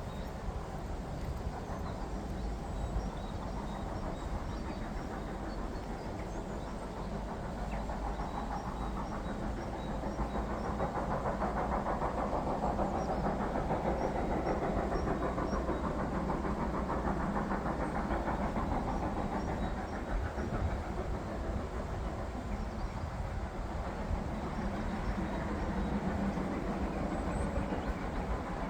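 Steam-hauled train running on the line, a steady rumble of locomotive and carriages that grows louder towards the middle and eases off again.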